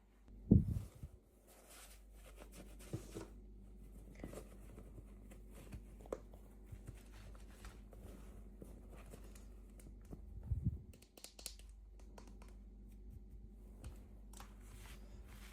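Packaging and small plastic pieces being handled by hand: scattered light rustling and small clicks, with a soft low thump about half a second in and another near eleven seconds.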